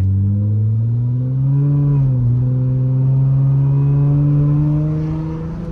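Straight-piped Nissan Altima engine pulling hard under acceleration, its pitch climbing. The pitch dips about two seconds in, then climbs slowly again and drops off near the end.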